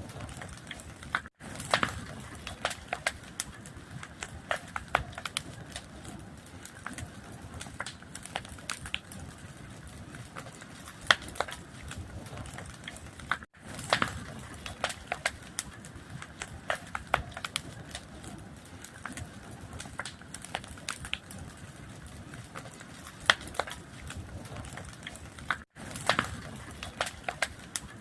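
Wood fire crackling, with a steady low rush under many irregular sharp pops and snaps. The sound cuts out for an instant three times, about every twelve seconds.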